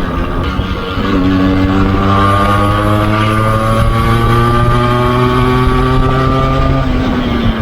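Yamaha RX 135's single-cylinder two-stroke engine running under way. Its pitch dips about a second in, climbs slowly and steadily for several seconds, then falls away near the end.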